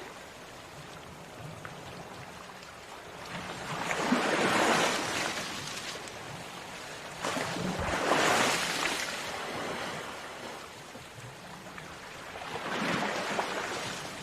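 Sea waves breaking on a shore: a steady wash of surf with three waves that swell up and fade, about four, eight and thirteen seconds in.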